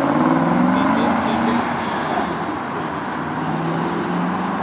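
A car engine running, its note wavering over the first second and a half and then holding a steady low hum, over general outdoor noise.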